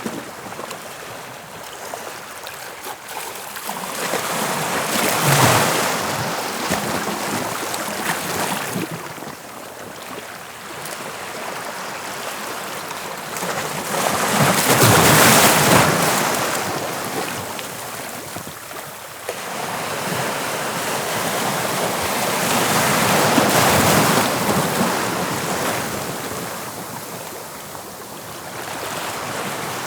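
Waves of the English Channel breaking on the shore: surf that swells and falls away in three broad surges about eight to nine seconds apart.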